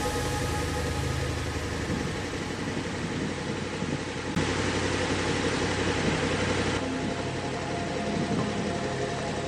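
KTM 1290 Super Adventure S's V-twin engine running steadily at low revs, with a steady hiss over it. The sound changes abruptly twice, about four and a half and seven seconds in.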